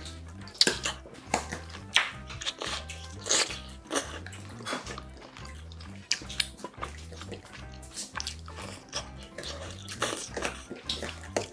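Close-miked eating sounds as meat is gnawed off a braised pork back rib: wet chewing and biting with many irregular sharp mouth clicks. Background music with a steady low beat runs underneath.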